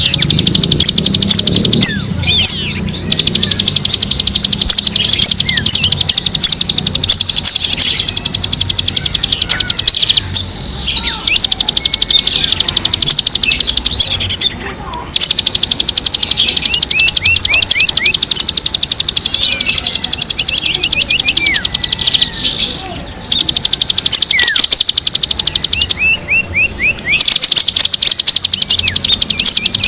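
Songbirds chirping, in many short rising and falling notes, over a continuous, very rapid, high-pitched trill that breaks off briefly a few times. This is a bird-calling lure recording.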